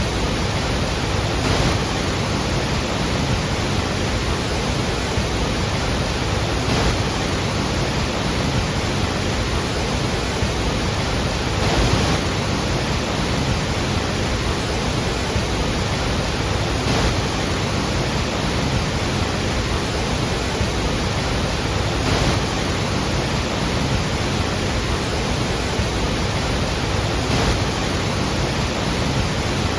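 Iguazu Falls' water falling in a steady, unbroken rush spread across all pitches, with slight swells now and then.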